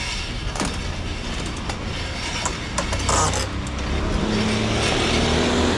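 125cc two-stroke go-kart engine running at low speed, its hum getting louder after about four seconds, with a few sharp clicks.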